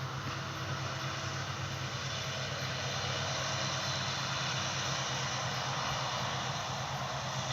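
Steady drone of farm machinery engines at work in the field, the nearest being a tractor baling.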